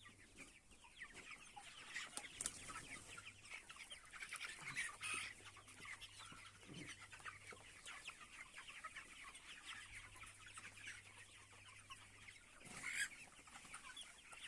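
Free-range chickens clucking softly as a flock, with a few louder calls, the loudest near the end.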